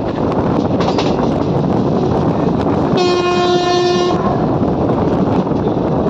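Passenger train running, a steady loud rush of wheel and rail noise, with one steady-pitched horn blast about three seconds in that lasts just over a second.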